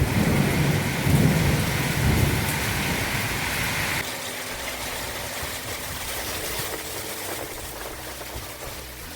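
Heavy rain pouring down, with a deep rumble under it for the first four seconds or so that drops away suddenly, leaving a steady rain hiss.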